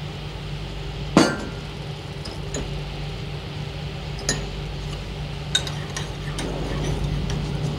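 Steady low machinery hum with a few sharp clinks, like crockery or metal being handled, about a second in and twice more later.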